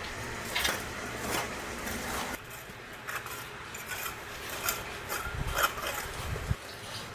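Irregular scrapes and knocks of hard objects being handled, over a low steady hum that stops about two and a half seconds in.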